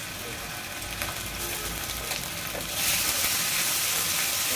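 Ginger-garlic paste and sliced onions sizzling in hot oil in a karai, stirred with a metal spatula; the sizzle grows louder about three seconds in as the paste is worked into the oil. The paste is being fried to cook off its raw smell.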